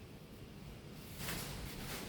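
Rain and wind of a severe thunderstorm, faint at first, with a rushing hiss that swells about a second in.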